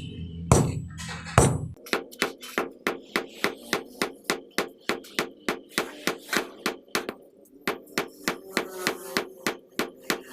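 Hammer striking metal in a steady rapid rhythm, about three to four blows a second, each with a short metallic ring; the blows start about two seconds in and pause briefly near the middle.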